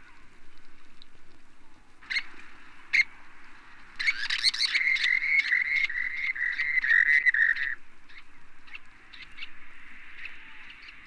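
Rock sandpiper calling: two short call notes, then a run of about four seconds of rapidly repeated rising-and-falling notes, followed by a few scattered short notes, over a steady hiss.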